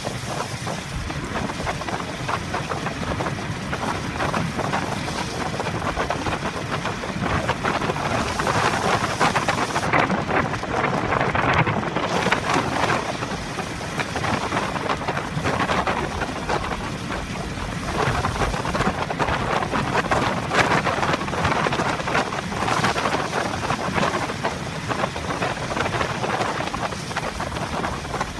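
Heavy typhoon rain pelting a moving car, heard from the in-car dashcam, over the car's engine and wet-road noise. The downpour swells and eases.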